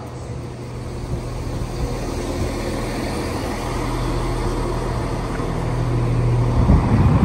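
Diesel train engine running with a steady low drone, growing steadily louder as the train draws closer.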